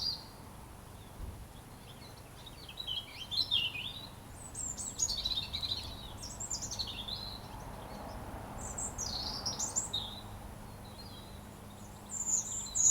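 A robin singing: a run of quick, high-pitched phrases of changing notes, with short pauses between them.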